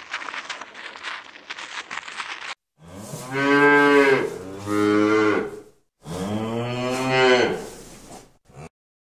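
Cow mooing three times, long low calls one after another, each swelling and then fading. Before them comes a couple of seconds of crackling and rustling.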